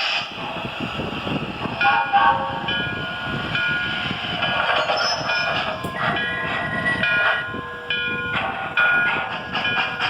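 Model trains running on a layout: a steady rumble of wheels on track, with repeated short toots from the locomotives' electronic sound systems.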